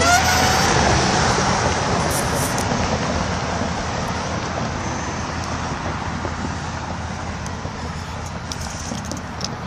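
Road traffic going by: a vehicle's tyre and engine noise, loudest at first and fading away as it passes.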